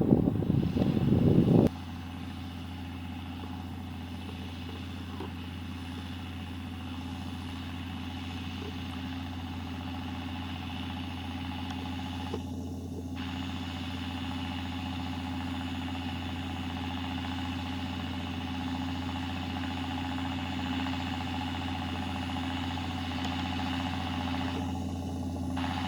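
John Deere tractor engine running steadily with an even low hum. A loud rumbling noise in the first second or two cuts off abruptly.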